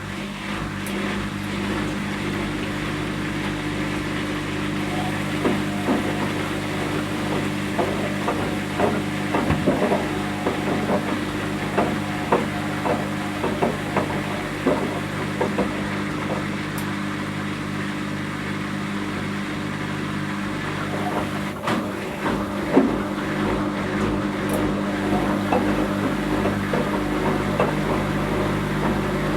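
Whirlpool Indiana 1400 washing machine running, with a steady motor hum and many small irregular knocks as the load of rubber ducks tumbles in the drum.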